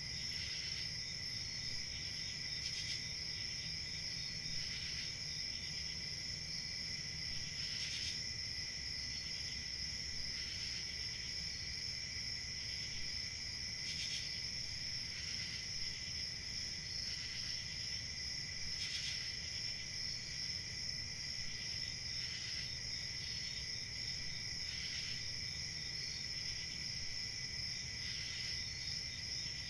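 A chorus of crickets chirping steadily, a continuous high trill with overlapping louder chirps coming every second or two, over a faint low rumble.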